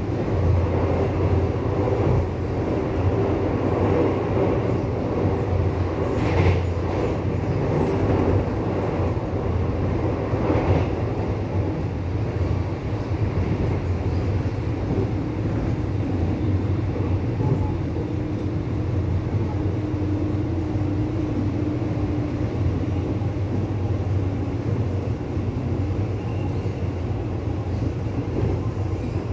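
Inside a Taiwan Railway commuter electric multiple unit running between stations: the steady rumble of wheels on rail and the car's running noise, heard near the doors.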